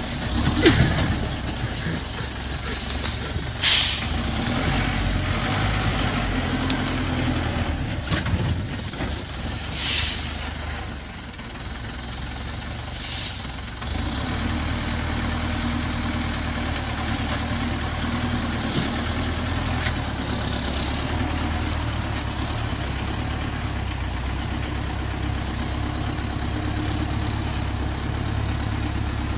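Heavy logging truck's engine running steadily, with three short hisses of air in the first half. The engine dips for a few seconds, then comes back louder and runs evenly.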